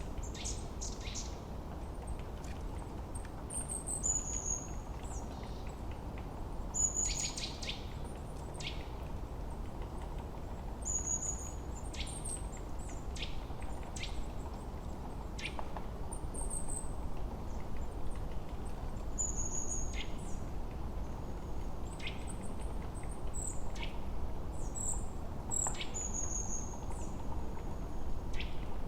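Forest birds singing: a short, high, falling whistle repeated every three to four seconds, with quick sharp chirps between, over a steady low rushing background.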